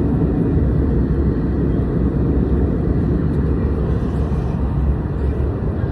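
Airliner cabin noise: the steady, loud rumble of the jet engines and airflow heard from inside the passenger cabin.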